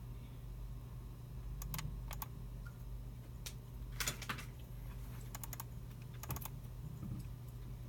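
Computer keyboard typing: keys clicking in a few short, irregular runs, over a steady low hum.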